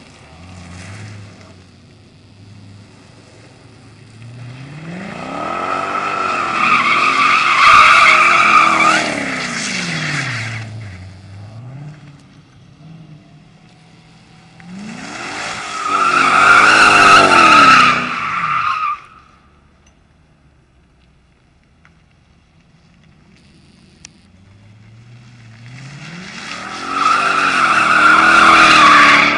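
2005 Mercedes CLK 500's V8, with a 3-inch cat-back exhaust, resonator delete and Magnaflow muffler, revving up and falling back three times while the rear tires squeal in donuts. Between the runs the engine drops back to a low idle.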